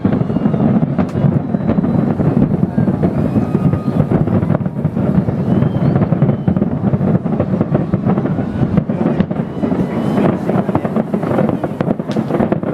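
Distant fireworks going off in a steady, dense rumble of booms and crackles, with crowd voices mixed in.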